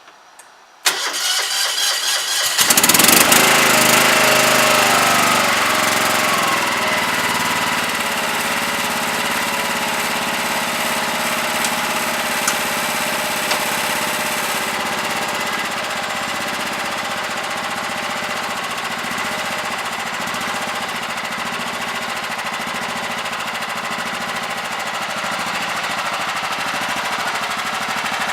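John Deere 180 lawn tractor engine cold-started: the starter cranks for about a second and a half, the engine catches and runs up loudly, then settles into a steady run that eases down a little over the following seconds.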